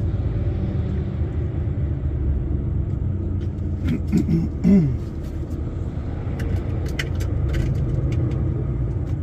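Steady low rumble of a lorry's engine and tyres, heard from inside the cab while driving on the road. A few faint clicks come between about six and eight seconds in.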